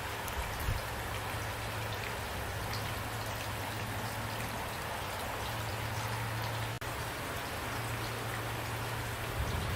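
Steady rain falling, with single drops ticking now and then; the sound cuts out for an instant about seven seconds in.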